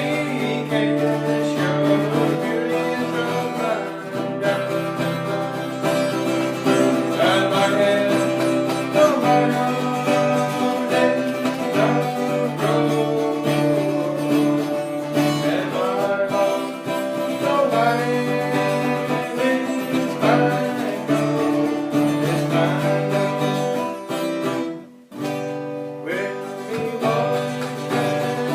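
Acoustic guitar music, strummed notes over a steady bass, with a brief drop in loudness about 25 seconds in.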